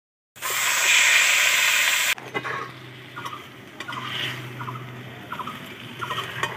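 Yogurt-marinated chicken sizzling loudly in hot oil in an iron kadai. After a cut it is being stirred with a metal spatula, with a quieter, steady sizzle.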